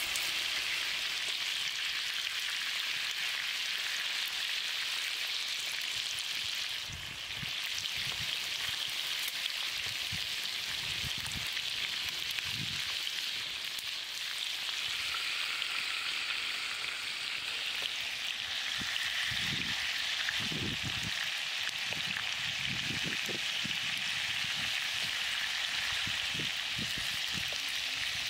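Pork-stuffed green pepper rings frying in hot oil in a shallow pan, a steady sizzle, with a few soft low bumps at times.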